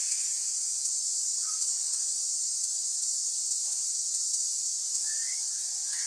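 Steady high hiss, with a couple of faint short sounds about a second and a half in and near the end.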